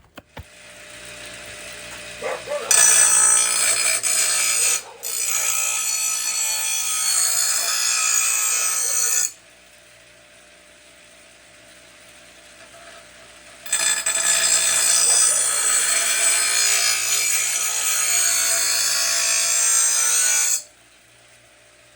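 Bench grinder motor spinning up, then a lawnmower blade's edge held against the grinding wheel in two long passes of several seconds each, a loud grinding hiss, with the grinder running on its own, quieter, between and after them. This is the dull, dinged mower blade being sharpened.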